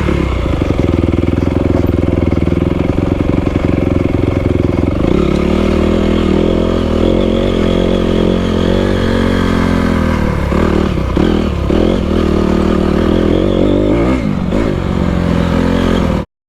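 Honda CRF250R dirt bike's single-cylinder four-stroke engine running under way, its note stepping up and dipping and rising again with the throttle. The sound cuts off suddenly near the end.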